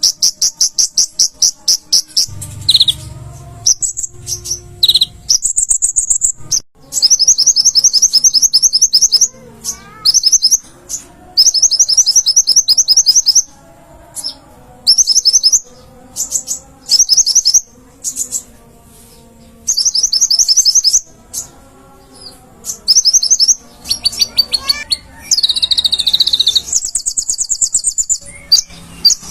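Konin (kolibri ninja) sunbird singing loudly in fast, high-pitched trills. The trills come in repeated bursts of about a second or two each, with short pauses between.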